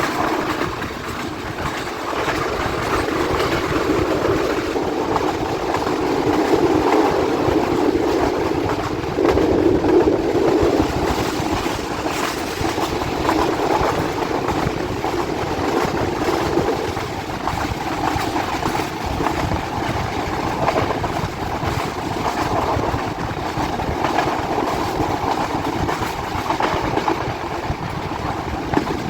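Express train running along the track, heard from on board: a steady rumble of the wheels with faint clicks over the rail joints, a little louder for a few seconds in the first half.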